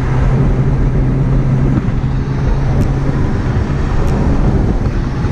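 McLaren 720S's twin-turbo V8 running with road noise, heard from inside the cabin: a steady low drone over a wide rush of noise. Faint ticks come about every second and a quarter from about three seconds in.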